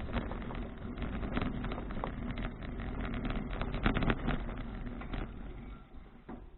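Wind buffeting the microphone of a bike-mounted action camera, with road rumble and frequent rattling clicks from a touring bicycle riding over the road surface. The noise dies down near the end.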